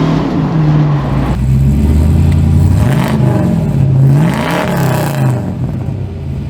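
Car engine under acceleration, its revs rising and falling several times.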